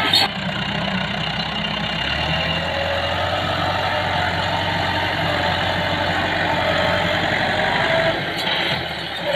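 Massey Ferguson tractor engine running steadily.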